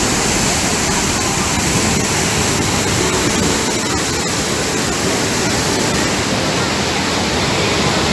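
Waterfall: a steady, dense rush of falling water with no breaks.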